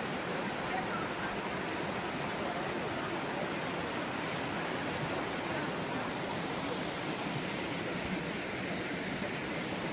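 Waterfall: water falling over rock as a steady, even rush.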